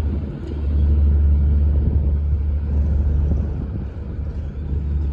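Steady low rumble of a diesel locomotive and its train running by, with no horn sounding; the level dips briefly just after the start and again near the end.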